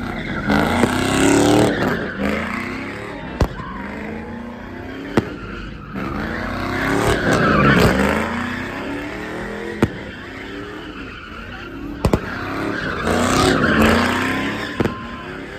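Vehicle engine revving hard while its tyres screech in a drift, in three long rising-and-falling passes, with a few short sharp cracks in between.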